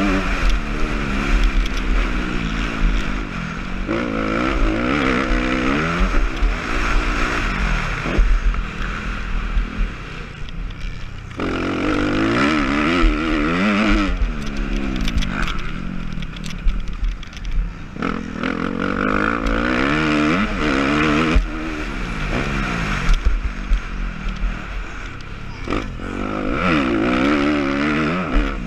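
Motocross bike engine, a Suzuki RM-Z250 250 cc four-stroke single, being ridden hard. Its pitch climbs and drops again and again as it revs through the gears, with several drops in level where the throttle is rolled off.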